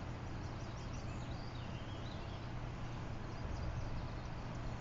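Steady rush of a flowing river, with faint bird calls chirping high above it during the first few seconds.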